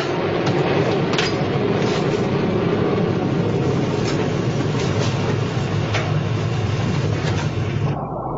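Steady rumble and hiss of a submarine's machinery during a dive, over a constant low hum, with occasional faint clicks. Near the end the hiss cuts off abruptly and only the low hum remains.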